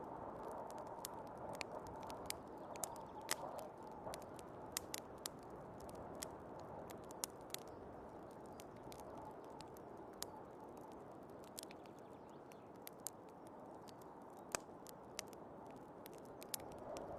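Wood fire crackling with irregular sharp pops over the steady rushing wind of a snowstorm, which swells briefly near the start and again near the end.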